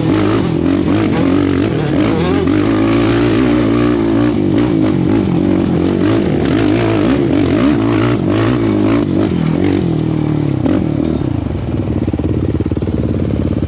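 Suzuki LT-R450 quad's single-cylinder four-stroke engine running and revving, its pitch rising and falling, with some clatter. Near the end it settles to a steadier, slightly quieter beat.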